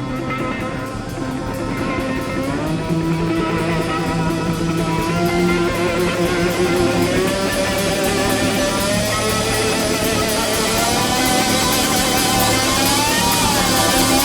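Live band music led by electric slide guitar holding long gliding, wavering notes over bass and drums, growing louder through the passage.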